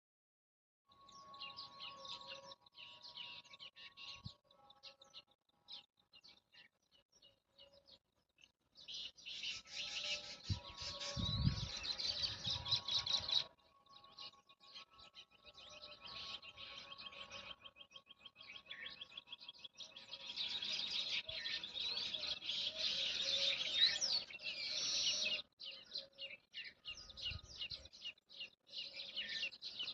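Many small birds chirping and twittering in quick, overlapping calls, busiest for a few seconds from about nine seconds in and again from about twenty seconds in. A low thump or two sounds beneath the birds.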